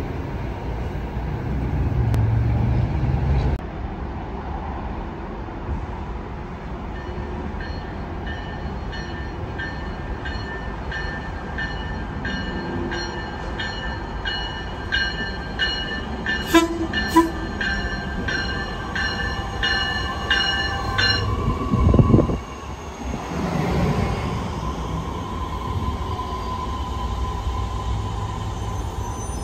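Trains passing a station platform. A freight train of autorack cars rumbles by, and a bell-like ringing repeats about twice a second for some fourteen seconds. Near the end a Metra Electric Highliner electric train comes in, with a steady whine, a loud thump, and a rising then falling rush as it passes.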